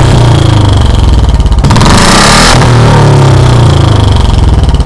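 Royal Enfield Bullet 350's single-cylinder engine running loud through an aftermarket silencer fitted with a clip-on turbo whistle, with a thin high whistle over the exhaust beat. It is revved once near the middle, bringing a short rush of airy hiss before settling back.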